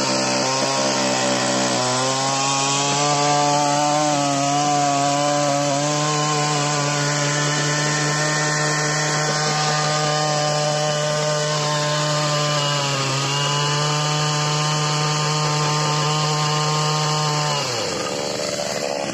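63cc two-stroke earth auger engine running at high revs; its pitch steps up about two seconds in, dips briefly later, then falls away near the end as the throttle is let off.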